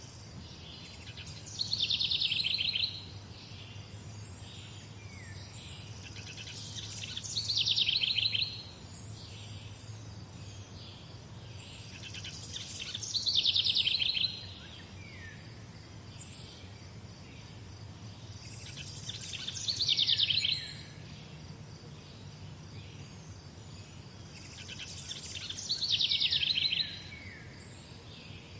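A songbird repeating the same song phrase five times, about every six seconds: each is a fast trill that falls in pitch and ends in a few short down-slurred notes. Fainter chirps from other birds come in between, over a low steady hum.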